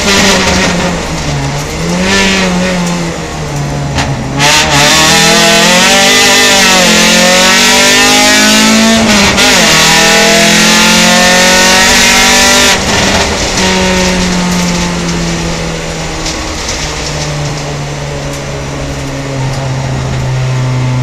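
Opel Kadett GSi engine heard from inside the cabin, its revs rising and falling again and again under a loud hiss. About 13 seconds in the hiss stops and the engine settles to a steadier, lower drone as the car slows.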